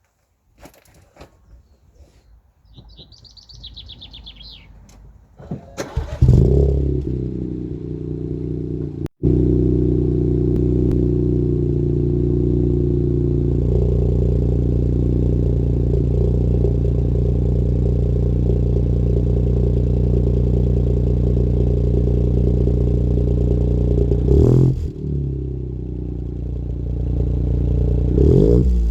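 Ford Fiesta 1.0 EcoBoost three-cylinder turbo engine with the rear silencer deleted, cold-started: it catches about six seconds in with a loud flare, then settles into a steady, loud cold idle. Two short revs near the end.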